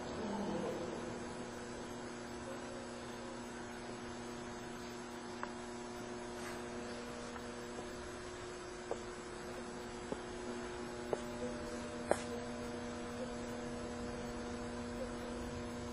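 Steady electrical hum of several held tones, with a few faint scattered clicks in the second half, the sharpest about twelve seconds in.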